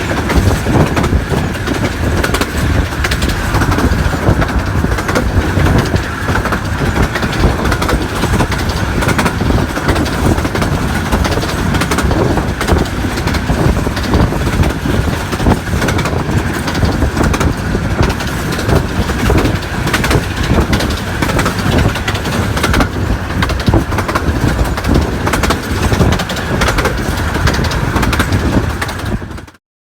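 A 15-inch-gauge miniature railway train running, its wheels rumbling and clattering over the rail joints with a steady high ring through it. The sound cuts off suddenly near the end.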